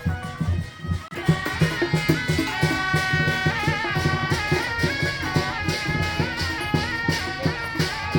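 Traditional folk music: a shrill reed-wind melody, with several parts moving together, over steady drum beats. It grows fuller about a second in.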